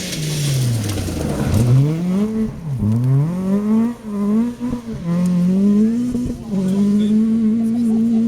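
Rally car engine at full song: the revs fall away, climb, drop sharply and climb again through quick gear changes, then hold a steady high note for the last few seconds.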